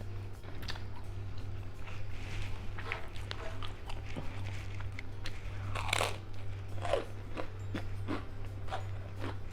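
Close-miked biting and chewing of crunchy food, a run of sharp crunches with the loudest about six and seven seconds in, over a steady low hum.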